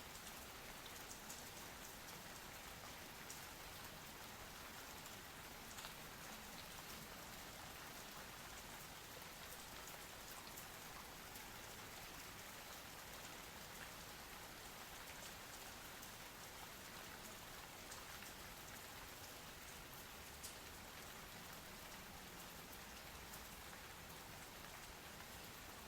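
Steady rain falling: an even hiss with scattered single drops ticking now and then.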